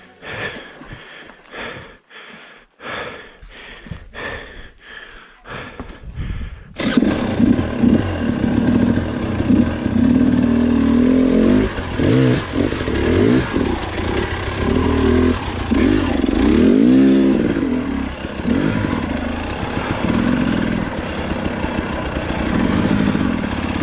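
Two-stroke KTM dirt bike engine revving hard, its pitch rising and falling again and again with the throttle. It starts abruptly about seven seconds in, after a quieter stretch with a soft pulse about twice a second.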